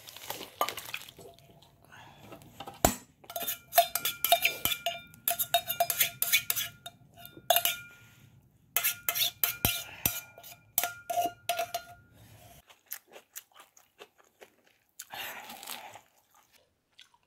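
Metal utensil clinking and scraping against a metal pot and a stainless steel bowl as ramen is tipped and scooped from the pot into the bowl, the bowl ringing after the knocks. The clatter stops about three-quarters of the way through.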